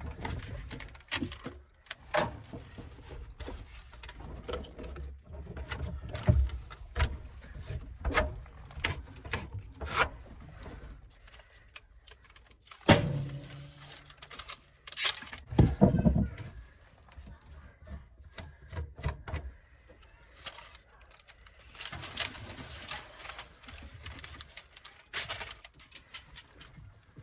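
Irregular clicks, knocks and rattles of tools and parts being handled during hands-on repair work, with two louder thumps about thirteen and sixteen seconds in.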